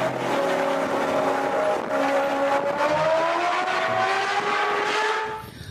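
Racing engine sound effect: a steady engine drone whose pitch rises slowly about halfway through, then fades out shortly before the end.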